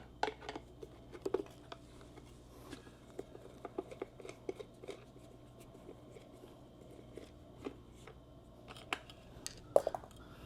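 Scattered small clicks and taps of hand work on motorcycle parts, with a louder cluster of clicks near the end.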